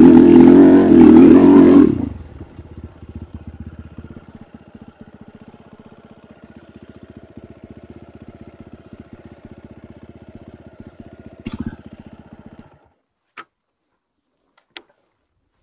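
Enduro motorcycle engine running loud under throttle. About two seconds in it drops to a faint, even idle, then stops near the end, leaving a few short clicks.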